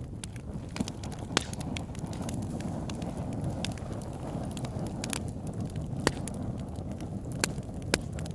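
Wood fire burning: a steady low rumble of flames with scattered sharp crackles and pops, several of them loud.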